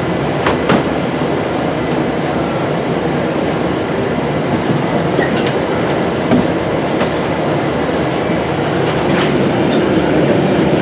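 Steady engine and road rumble heard inside the cabin of a moving airport express bus, with a few sharp rattles and clicks.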